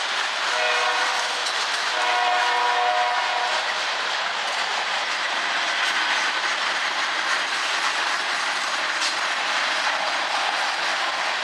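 Loaded coal gondolas rolling past close by: a steady rumble of steel wheels on rail with rhythmic clicking over rail joints. Twice in the first few seconds a brief pitched wail sounds over the rumble.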